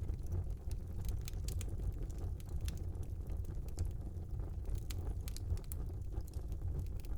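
Wood fire in a small fireplace burning with a steady low rumble of flames and frequent irregular crackles and pops from the burning wood.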